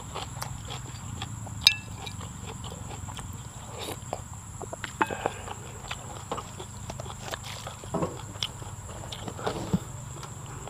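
A man chewing and smacking his lips while eating, a string of short, irregular clicks.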